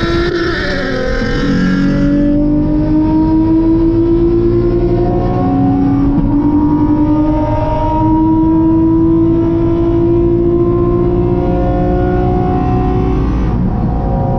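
Nissan 350Z's 3.5-litre V6 engine pulling hard under full acceleration. Its pitch climbs steadily and drops back at each upshift, twice, then climbs again.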